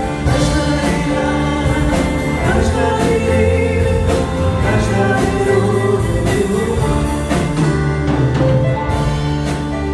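A group of voices singing a Christian hymn with instrumental accompaniment and a steady percussion beat.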